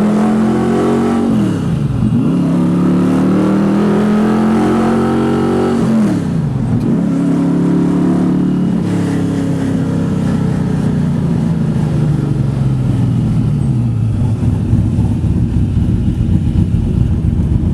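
Carbureted 427 cubic-inch small-block Chevy V8 in a manual 4-speed Camaro pulling hard through the gears. Its pitch climbs and drops sharply at two upshifts, climbs again, then falls away slowly as the car comes off the throttle, leaving a rough, uneven low rumble near the end.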